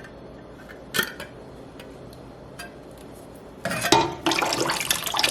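A single sharp metal click about a second in, then, from near the end, a can of diced tomatoes tipped into a pot of broth with a loud splashing clatter.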